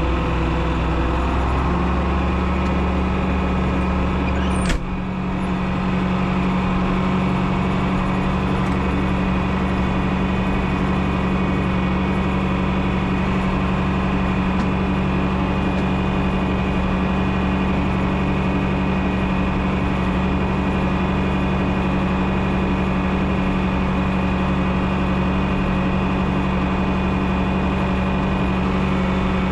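John Deere 6030 tractor's six-cylinder diesel engine running steadily, its note stepping up slightly about a second and a half in. A single sharp knock about five seconds in.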